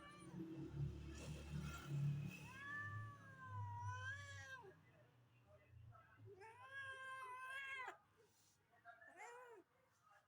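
Domestic cat meowing three times: two long, drawn-out meows and a short one near the end, with a low rumble underneath during the first few seconds.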